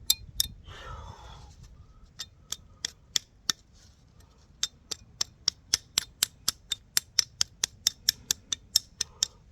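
Sharp, regular clicks, about three a second with a short pause near the middle, as a tool scrapes and picks at a heavy metal find to get something off it.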